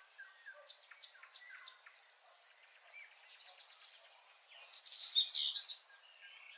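Songbirds chirping and singing: scattered faint chirps, then a louder burst of quick rising and falling song about five seconds in.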